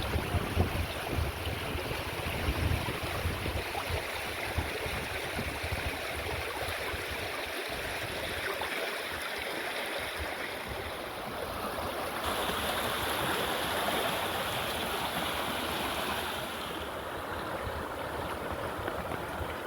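Running water flowing steadily, with wind buffeting the microphone in the first few seconds. About twelve seconds in, the water's sound changes and grows brighter.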